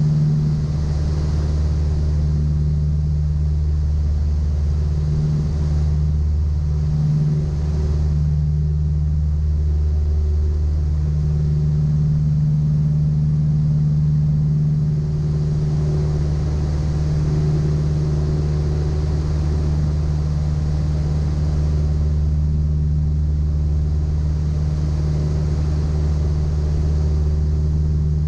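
Steady drone of a Piper Apache's two piston engines and propellers, heard inside the cabin during a steep turn. Its low hum wavers slightly a few seconds in, then holds steady.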